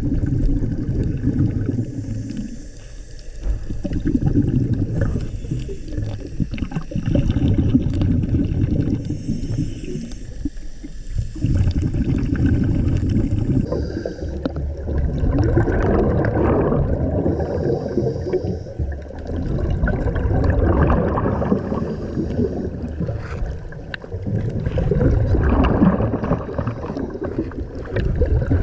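Underwater scuba breathing: exhaled bubbles from a diver's regulator gurgling and rumbling, swelling and easing in surges every four to five seconds with the breath.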